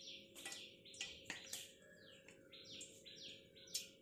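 Faint bird chirping: a quick string of short, repeated falling chirps. A faint steady hum runs underneath.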